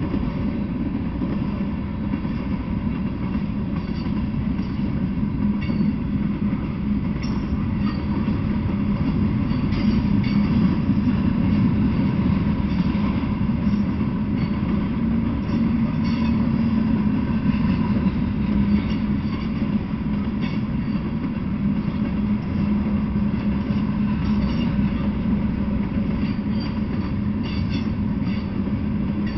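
Freight train of tank cars and covered hopper cars rolling steadily past: steel wheels running on rail, a continuous noise with a low hum underneath and faint scattered ticks.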